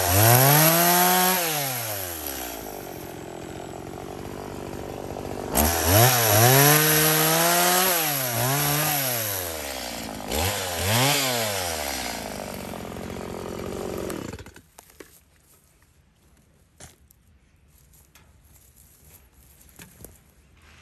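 Chainsaw revving up in several short bursts and dropping back to idle between them, cutting stubs flush with the log. About fourteen seconds in it stops suddenly, leaving only faint knocks.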